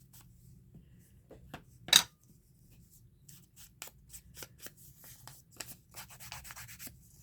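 Faint rustling and light clicks of paper being handled and rubbed down during paper crafting, with one sharp tap about two seconds in and a quicker run of small ticks and scrapes in the second half.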